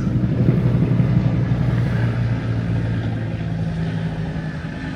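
Car engine running steadily: a low, even hum with a fluttering edge.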